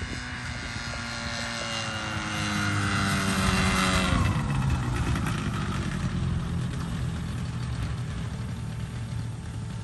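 Ultralight aircraft's propeller engine flying past. Its pitch slides down as it gets louder, drops quickly at its loudest about four seconds in, then settles into a lower, steady drone as it moves away.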